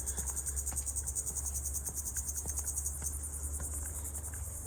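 Insects trilling in a continuous high, rapidly pulsing chorus over a low, steady rumble.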